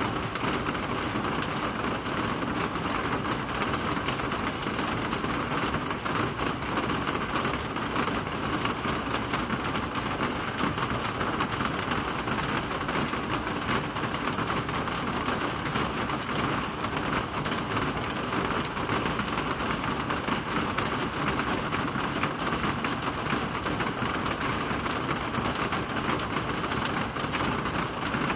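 Rain falling steadily, an even, unbroken hiss of countless drops on surfaces.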